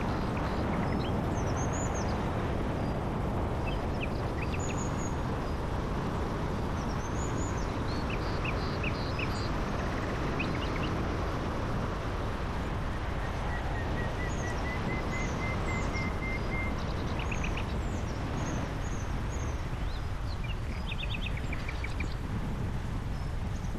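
Small birds singing, with many short chirps and quick trills and one longer held whistle in the middle, over a steady low rumble.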